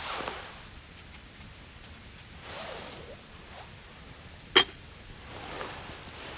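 Small wood fire burning in a Firebox stove: soft rushing swells and one sharp snap about four and a half seconds in.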